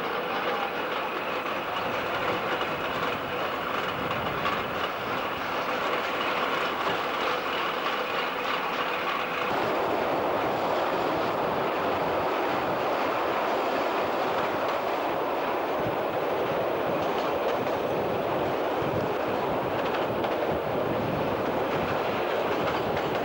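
Passenger carriages of a steam-hauled train running on the track, heard from an open carriage window as a steady rush of wheel and rail noise. About nine and a half seconds in, the sound becomes louder and fuller as the train runs onto a steel girder bridge.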